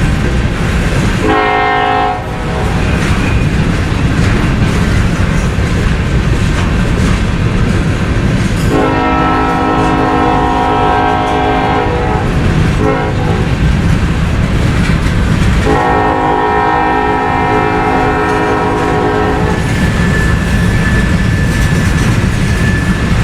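Freight train rolling past with steady wheel-and-rail rumble and clatter, while a locomotive's multi-chime air horn sounds four blasts: a short one, a long one, a brief one, then a long one.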